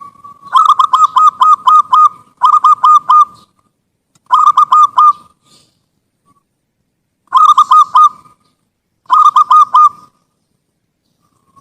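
Zebra dove (perkutut) cooing: a soft held lead-in note, then five phrases of quick, clipped coos, each phrase about a second long with short pauses between.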